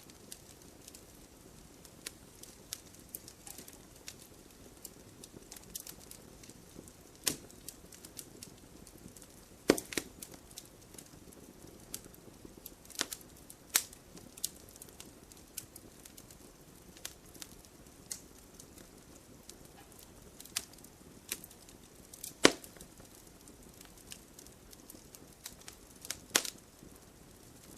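Firewood burning in a fireplace, crackling with irregular sharp pops over a soft, steady low hiss. The loudest pops come about a third of the way in and again about four-fifths through.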